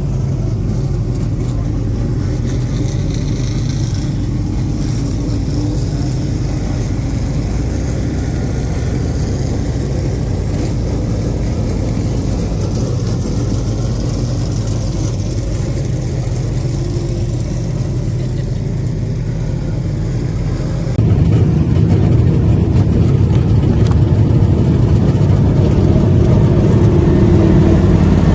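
Dirt-track modified race cars' engines running hard at speed, a steady loud engine note that shifts only slightly in pitch. About 21 seconds in it jumps to a louder, duller stretch of the same engine sound.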